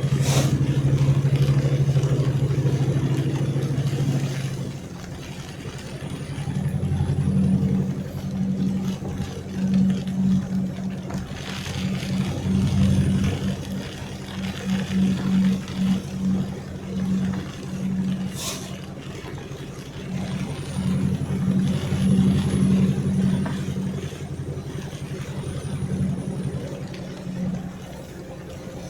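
Car engine running while driving, steady for the first few seconds, then rising and falling unevenly in level. Two sharp clicks, one at the start and one about two-thirds of the way in.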